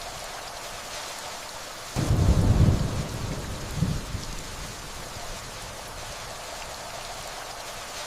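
Steady rainfall with distant thunder: a low rumble comes in suddenly about two seconds in, swells once more briefly, and dies away, leaving the rain alone.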